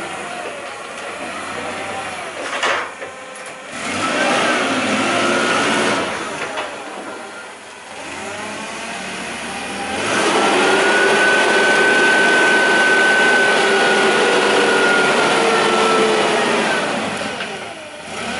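Nexen LPG forklift engine running and revving, its pitch rising and falling, with a louder steady whine from about ten seconds in that eases off near the end.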